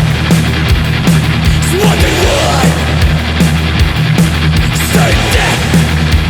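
Thrash metal recording: heavy distorted electric guitars and bass over a driving drum beat, loud and dense throughout.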